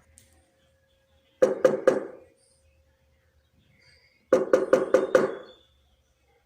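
Quick knocking in two groups, three strikes and then about five, each strike with a short ringing tone.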